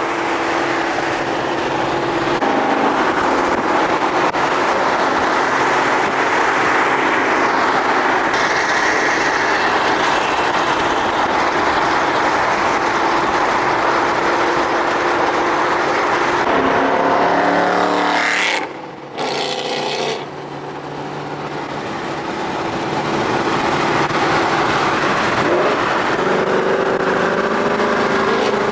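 Ford Mustang 5.0 V8 accelerating hard through the gears, its pitch climbing. About two thirds in it drops off sharply at a gear change, then builds again as the car pulls.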